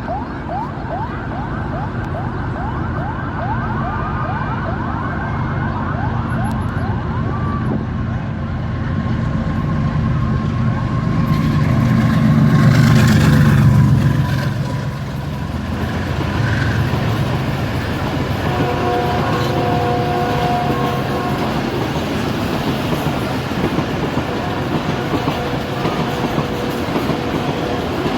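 GEU 40 diesel-electric locomotive's engine chugging under power as it hauls a passenger train. The sound builds to its loudest about twelve to fourteen seconds in as the locomotive passes, then settles into the steadier running of the train.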